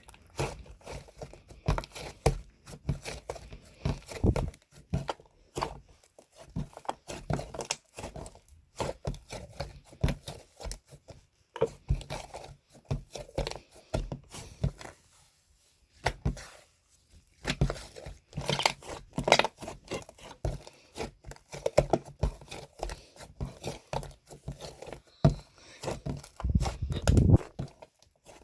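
Close-up handling noises: rapid irregular clicks, crinkling and tearing, with a short pause about halfway through.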